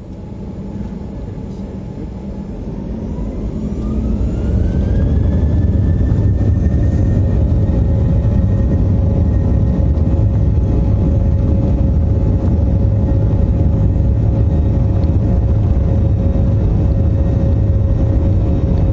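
Airliner engines spooling up for takeoff: a rising whine climbs over the first few seconds as the noise grows, then settles into a loud, steady rumble at takeoff thrust.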